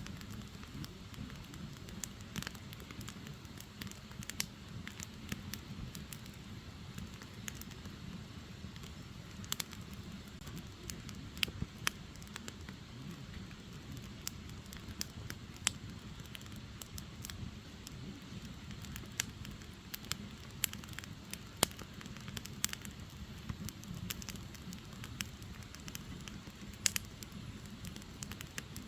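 Burning firewood crackling, with irregular sharp pops several times a second over a steady low rumble of the flames.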